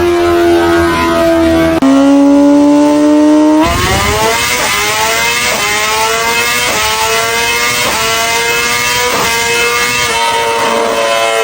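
Sport motorcycle engines at high revs. A steady engine note runs first, then after a cut a bike accelerates hard through the gears. Its pitch climbs and drops sharply at each upshift, about once a second, six times.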